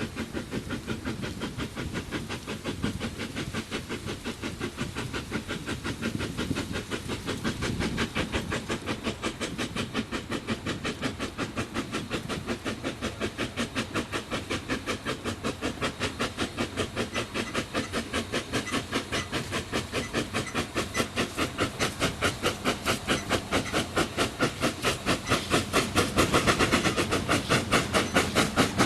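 Corpet-Louvet 0-4-0 tank steam locomotive working under steam, its exhaust chuffing in quick, even beats over a steady hiss. The beats grow louder near the end.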